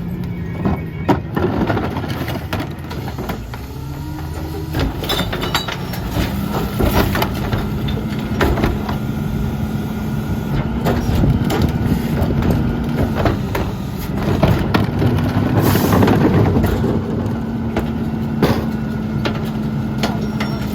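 The diesel engine of a Mack MRU rear-loader garbage truck with a McNeilus body, its pitch rising over the first few seconds and then held steady at raised speed. Many sharp knocks and clanks of metal and trash run over it.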